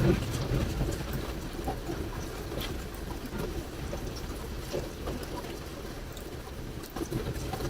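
River water flowing and lapping in irregular gurgles, a little louder right at the start, with a few faint crackles from a campfire.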